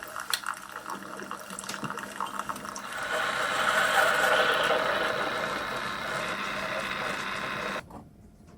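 Coffee maker dispensing into a mug: a few clicks and clatter, then about five seconds of steady pouring liquid that cuts off suddenly near the end.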